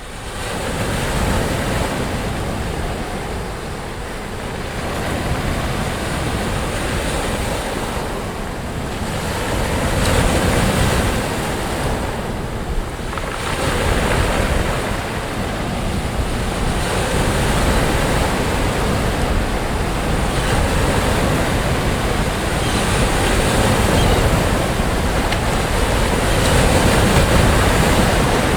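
Sea waves breaking and washing onto a beach: continuous surf that swells and eases every few seconds.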